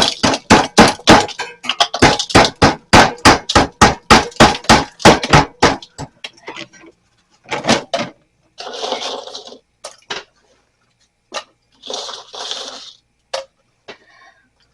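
Wooden scraper hacking at thick ice built up in a mini fridge's freezer compartment, quick strikes about three to four a second for the first six seconds. Then scattered knocks and two short scraping, crunching bursts as ice breaks loose.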